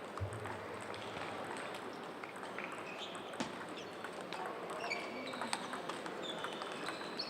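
Table tennis balls clicking irregularly off bats and tables across a busy playing hall, over steady hall noise, with a few short high squeaks in the middle.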